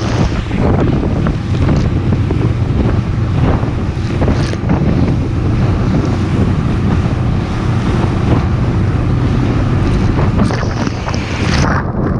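Wind buffeting the microphone over a boat's motor running steadily, with repeated slaps and splashes as the hull pounds through rough waves.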